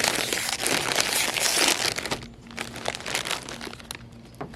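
A potato chip bag being opened and handled: loud crinkling of the bag's plastic for about two seconds, then quieter scattered rustling.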